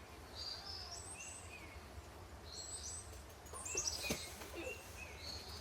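Bird calling: a short, high, rising phrase of stepped notes repeated about every two seconds, with a louder quick run of falling high notes and a sharp click about four seconds in, over a steady low rumble.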